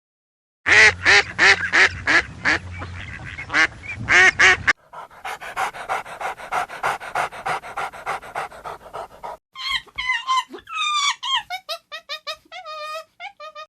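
Dog calls in three short clips: first a quick series of sharp, high yelps; then a fast, even run of short sounds, about six a second; then a string of high whines that fall in pitch.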